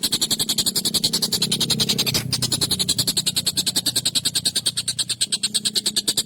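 Tengkek buto kingfisher giving a fast, harsh, rattling chatter of about ten notes a second, kept up without a break, over a low background hum.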